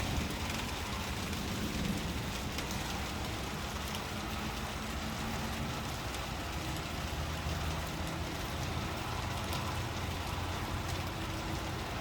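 Heavy rain coming down, a steady, even hiss of falling rain with no let-up, and a faint low hum underneath.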